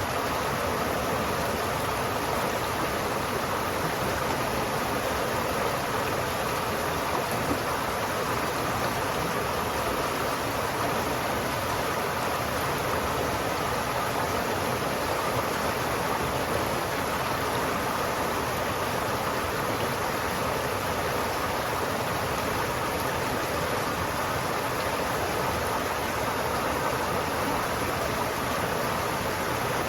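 River water flowing steadily in an even, unbroken rush.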